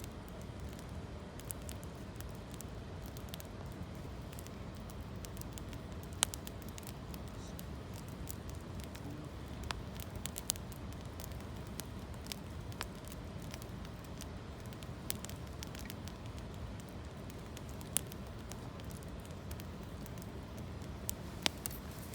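Campfire of gathered branches and dry leaves burning, with scattered sharp crackles and pops, a few louder than the rest, over a steady low rushing background.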